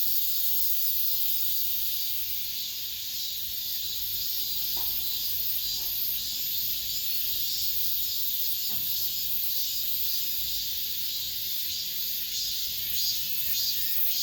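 Chorus of cicadas singing: a steady, dense, high-pitched buzzing hiss that carries on without a break.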